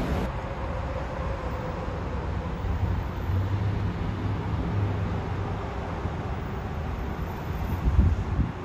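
Low, steady rumble of a train approaching a station platform, with a hum that swells in the middle and a low thump near the end.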